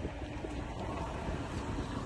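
A vehicle engine idling as a low, steady rumble, with wind noise on the microphone.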